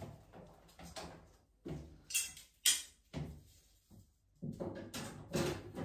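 A few sharp knocks and clatters of hard parts being handled during a washing-machine repair, with low voices in the last second.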